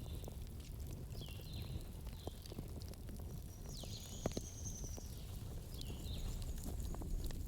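Campfire burning with scattered crackles and a sharper pop a little past the middle, over a low steady rumble. Short high chirping calls repeat throughout, with one longer high whistle near the middle.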